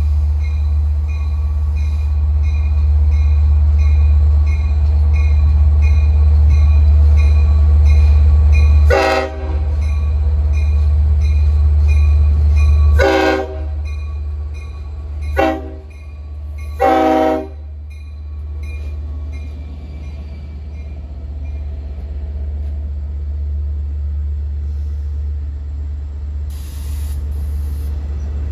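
A Long Island Rail Road diesel train going by with a heavy engine rumble that eases off after the long horn blast. The horn sounds four times, short, long, short, long, while a bell rings about twice a second and fades away.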